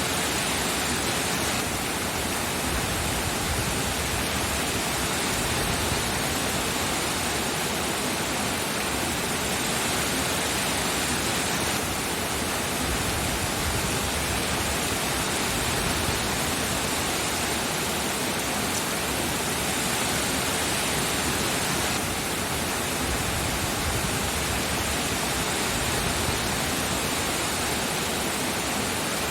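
Steady heavy rain, a dense even hiss with no distinct drops or other sounds.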